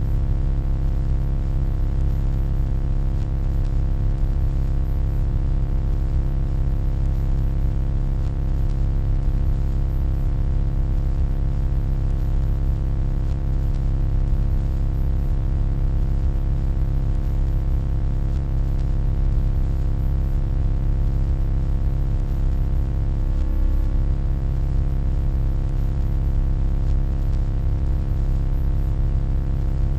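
Steady electronic hum: a deep, unchanging drone made of many stacked low tones, with faint hiss above it.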